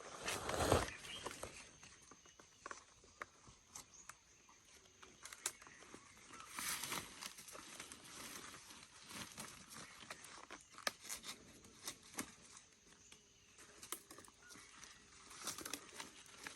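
Rustling and crinkling, with scattered sharp clicks and a few louder rushes of noise: one about a second in, one around seven seconds and one near the end.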